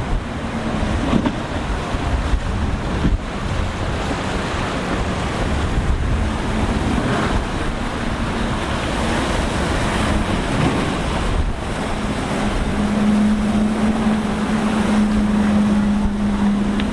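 Wind buffeting the microphone over the wash of surf and waves in a rough inlet. A boat engine's steady drone comes in faintly midway and grows louder and more constant during the last third.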